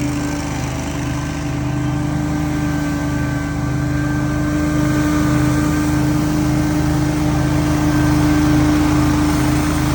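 Engine of lawn-care power equipment running steadily at speed, with a constant whine over the engine note that grows slightly louder over the stretch.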